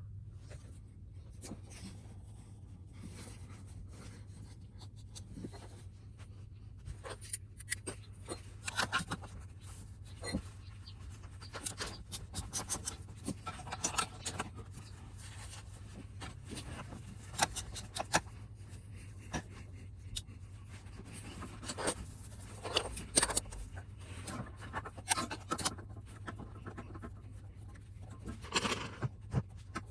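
Hand tools working on a Suzuki Swish 125 scooter's muffler and its fittings: irregular clusters of metal clicks and scrapes, over a steady low hum.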